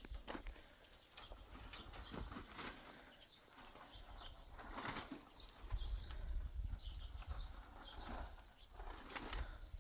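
Small birds chirping repeatedly over a low, uneven rumble, with a few brief rustling noises.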